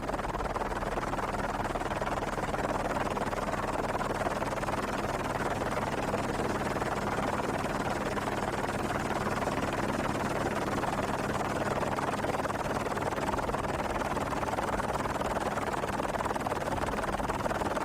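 A steady engine drone under a rushing noise, unchanging.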